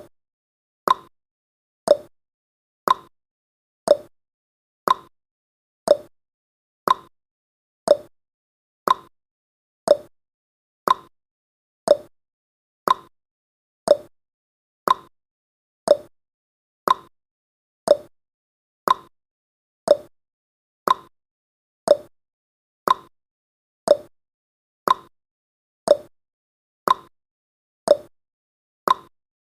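Clock-tick sound effect of a countdown timer: one short, sharp tick every second, alternating between a higher and a lower tick like a tick-tock, with silence between them.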